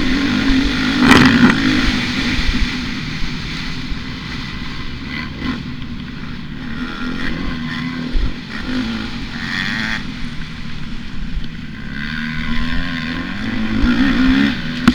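Motocross bike engine revving up and easing off as it is ridden on the track, its pitch rising and falling. It is loudest about a second in and again near the end.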